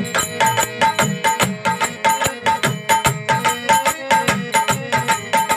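Dholak drumming a brisk, even rhythm, with a melody instrument repeating a short high note over it, as the instrumental interlude between verses of a chetavani bhajan.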